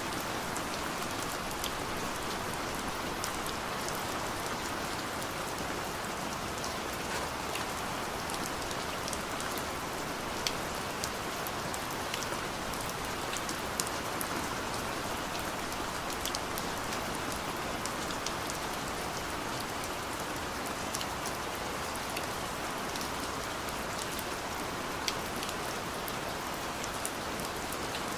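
Steady rain on a car, heard from inside the cabin: an even patter with scattered sharper drop taps.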